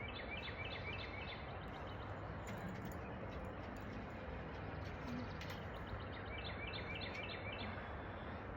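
Birds chirping: a quick run of about seven repeated short chirps, a pause, then another similar run about six seconds in, over a steady background hiss.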